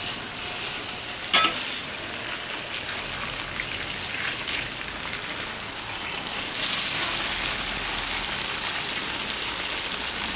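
Tofu pieces sizzling as they pan-fry in hot oil in a large iron wok, with a metal spatula scraping the wok as they are turned. There is a sharp clink about a second and a half in, and the sizzle gets louder about two-thirds of the way through.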